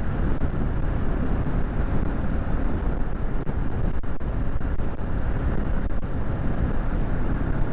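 Kawasaki Z650's parallel-twin engine running steadily on the move, mixed with wind rushing over the microphone.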